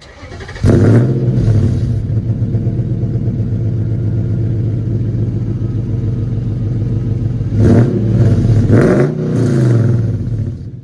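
2005 Nissan Xterra's engine starting with a brief crank under a second in, then idling steadily; near the end the pitch swells and dips twice as it is briefly revved.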